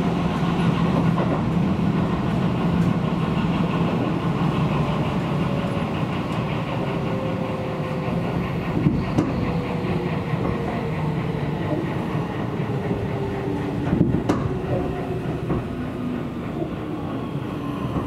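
Seibu Railway electric train running on the line: a steady rumble of wheels on rail with a low hum, a thin motor whine sliding slowly down in pitch, and two sharp knocks, one around the middle and one near the end.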